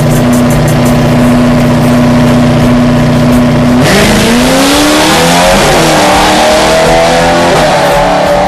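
Racing engine held at steady high revs, then launching hard about four seconds in: a sudden loud rush as it accelerates away, its pitch rising in steps.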